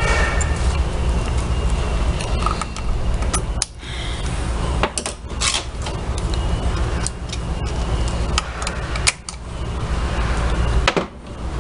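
A steady low mechanical rumble runs throughout, with scattered sharp clicks and clinks from small washing-machine transmission parts being handled during reassembly.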